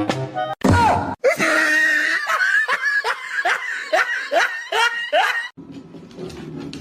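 Short bit of music cutting off, then a person laughing hard in a run of about ten repeated rising-and-falling 'ha' sounds, a little over two a second, before it fades to quieter sound near the end.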